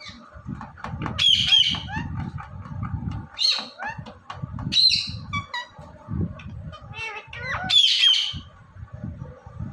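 Indian ringneck parakeet giving about four loud, harsh squawks, with softer chirps between them.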